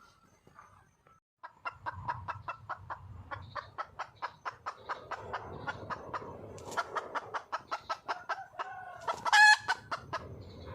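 Red junglefowl hen clucking in a rapid, steady run of about four short clucks a second, the call a wild hen gives when calling for a male. About nine seconds in she gives one loud, short squawk, the loudest sound in the run.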